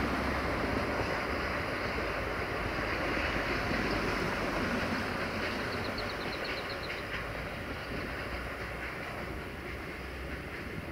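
Freight train of tank wagons rolling away on the rails: a steady rumble of wheels that slowly fades as the train recedes.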